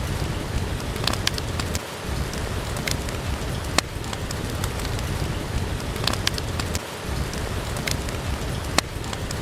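Steady rain with a low rumble under it, and scattered sharp crackles and pops from a wood fire burning in a fireplace.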